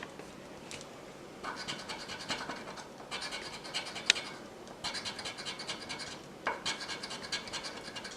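Scratch-off lottery ticket being scratched: several runs of quick rasping strokes separated by short pauses, with a sharp click about four seconds in.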